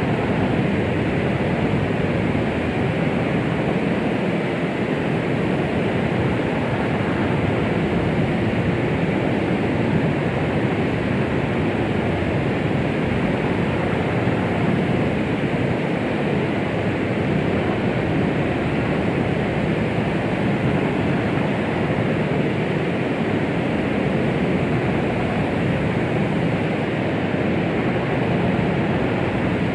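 Steady white-noise track for calming a baby: an even, unbroken rushing hiss, heavier in the low and middle range than at the top, with no rhythm or changes.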